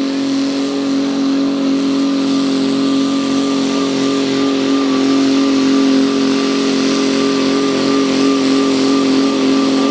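A diesel garden tractor's engine held wide open at a steady high pitch, pulling the weight sled down the track under full load.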